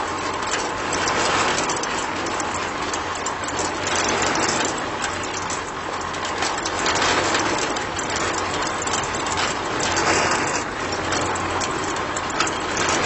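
A small machine running steadily, with a low hum under a dense rattling noise.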